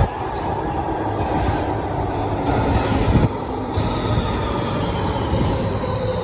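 Rotterdam metro train running on rails, a steady rumble with a faint whine that falls slowly in pitch in the second half.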